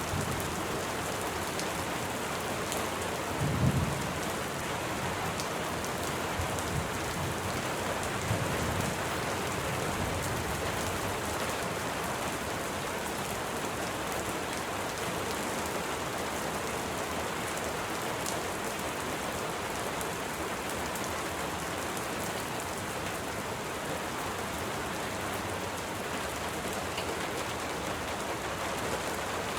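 Steady, even rain, with two brief low rumbles of thunder, about three and a half and eight seconds in.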